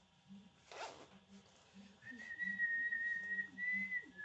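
A person whistling one long, slightly wavering note, starting about two seconds in. A short rasping noise comes about a second in.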